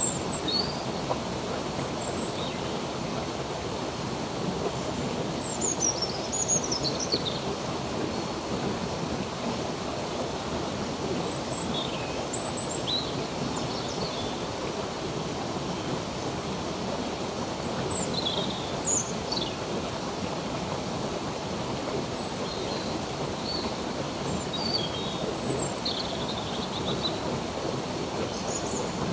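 Running stream water making a steady rush, with birds chirping in short, high calls and quick glides at scattered moments, busiest around six to seven seconds in and again near the end.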